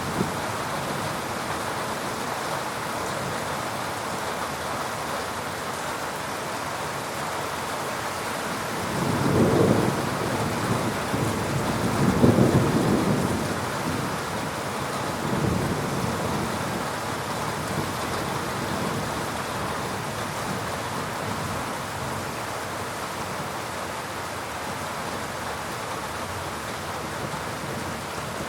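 Steady heavy rain falling, with low rumbles of thunder swelling up about a third of the way in, again a few seconds later, and more weakly just after the middle.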